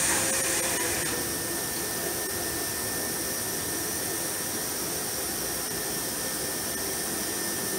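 Intermodal freight train's container wagons rolling through the station: a steady rush of wheel and rail noise with a thin high tone running through it, a little louder in the first second.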